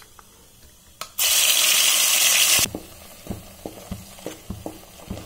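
Onion, garlic, ginger and green chilli paste going into hot oil: a loud sizzle starts about a second in, lasts about a second and a half and stops suddenly. Then a wooden spatula knocks and scrapes in the pan as the paste is stirred, over a quieter sizzle.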